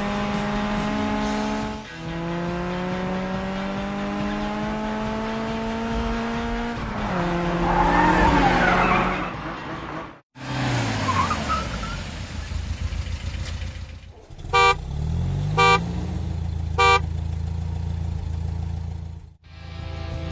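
Cartoon car engine sound effects: a pitched engine tone climbing as it revs, breaking off sharply, then winding down. This is followed by three short horn toots about a second apart and a steady low engine hum.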